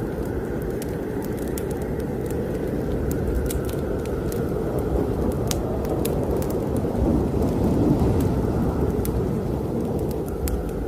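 Wood fire in a fireplace crackling with scattered sharp pops over a strong, low snowstorm wind that swells in a gust about seven seconds in.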